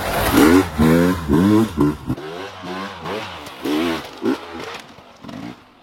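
Dirt bike engine revving up and down over and over, about twice a second, growing fainter toward the end.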